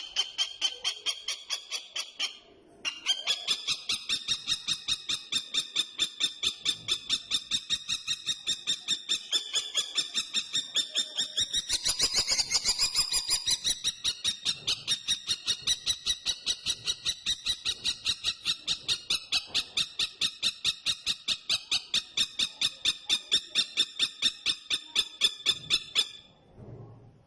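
Common kestrel giving a long, fast run of high kee-kee-kee calls, about four to five a second. There is a short break about two seconds in, and the calls stop shortly before the end.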